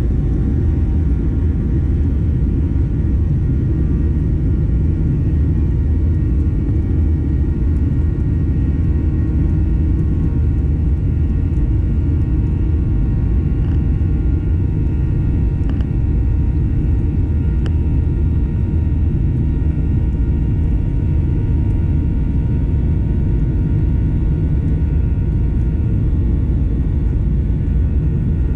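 Cabin noise of a Boeing 737-900ER with its CFM56-7B turbofans under power: a loud, steady rumble with faint steady engine tones over it and no change in level.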